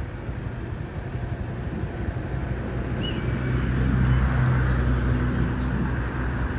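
Motor vehicle engine rumbling, growing louder through the second half as it draws near. About three seconds in, a bird gives one short, falling whistled call.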